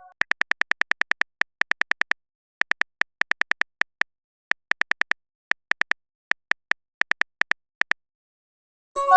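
Chat-app keyboard typing sound effect: many rapid short clicks in uneven runs with brief pauses, as a message is typed out letter by letter. Right at the end a pitched message chime sounds.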